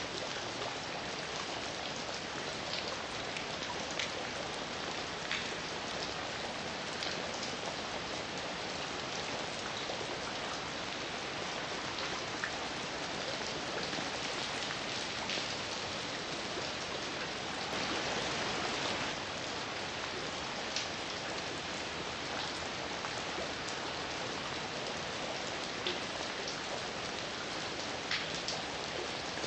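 Heavy rain falling steadily, with scattered sharp drops pattering on a surface, briefly heavier about two-thirds of the way through.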